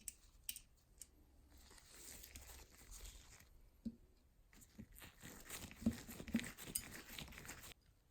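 Rustling and scraping hand-work noises with a few sharp clicks and knocks, busiest in the second half and cutting off suddenly near the end.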